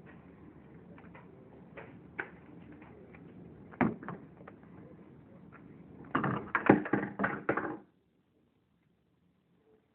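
Hands working sticky slime and a glove: scattered small clicks, one louder knock about four seconds in, and a burst of loud crackling near the end, after which the sound cuts off abruptly.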